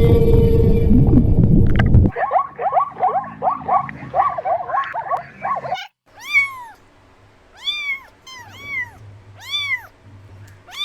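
Cat meowing: a quick string of short mews, then about five separate meows, each rising and falling in pitch. Before that, for the first two seconds, a loud low rumbling sound with a steady hum in it, which then cuts off.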